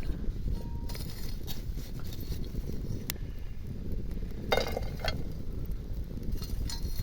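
Outdoor ambience: a steady low rumble, with a few light clinks and scrapes. The loudest of these comes about four and a half seconds in.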